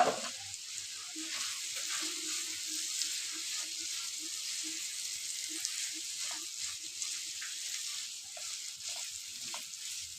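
Chicken curry sizzling steadily in an open pan, with a brief loud clatter right at the start.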